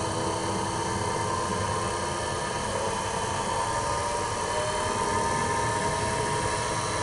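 Wood lathe running steadily at high speed, spinning a rough Irish elm blank with no tool yet on the wood. A steady motor hum with several faint whining tones over a constant rushing noise.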